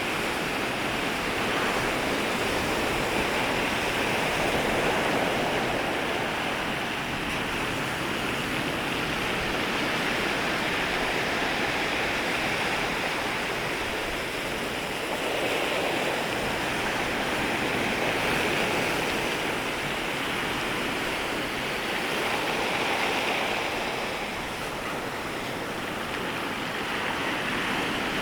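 Sea waves washing and breaking at the shoreline, a continuous rushing wash that swells and ebbs every few seconds as waves come in and draw back.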